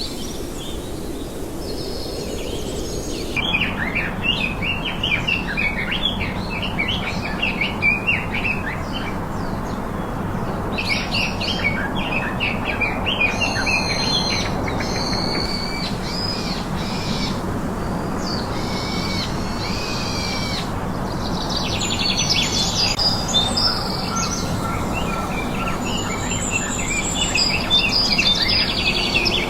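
Several birds chirping and singing in quick, overlapping calls over a steady background hiss, starting a few seconds in and growing busier in bursts.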